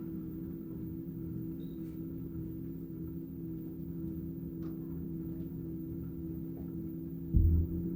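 LG direct-drive washing machine's motor and drum turning steadily during a spin cycle, giving an even low hum with several steady tones. Near the end comes a sudden low thump.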